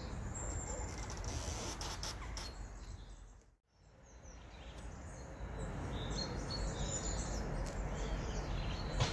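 Small garden birds chirping and calling over a steady low background rumble. The sound drops out briefly about three and a half seconds in, then returns.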